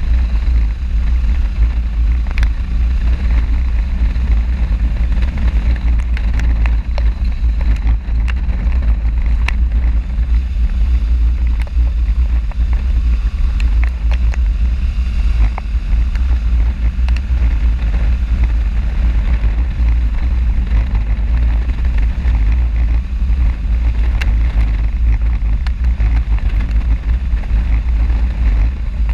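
A motorcycle riding along, with heavy wind rumble on the microphone over the engine and road noise.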